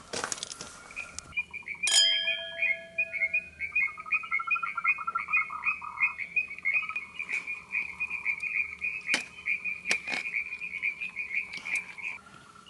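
An animal calling in a long, rapid series of short high chirps, about four or five a second, with a lower fast pulsing call joining for a couple of seconds. About two seconds in, a single sharp metallic clink rings out, and a few light clicks fall here and there.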